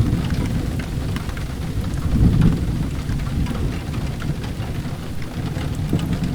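Steady rain mixed with a wood fire crackling in a fireplace: a low rumble throughout, swelling about two seconds in, under scattered sharp crackles.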